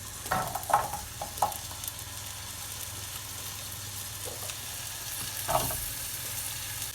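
Apple pieces sizzling in bubbling butter in a frying pan, a steady hiss, with a few clatters as the pieces are put in and moved about in the pan.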